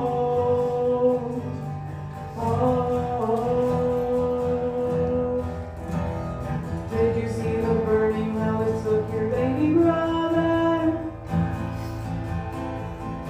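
Live band music: strummed guitar under a voice holding long wordless notes that glide to a new pitch every few seconds.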